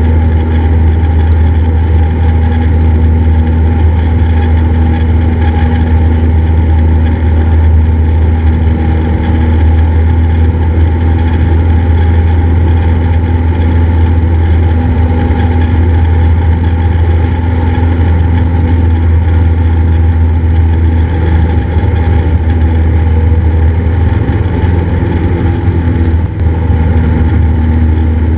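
Cessna 172's piston engine and propeller droning steadily as heard inside the cockpit, with no clear change in pitch.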